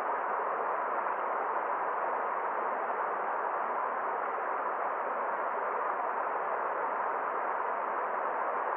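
Forest stream flowing: a steady, even rush of water that does not change.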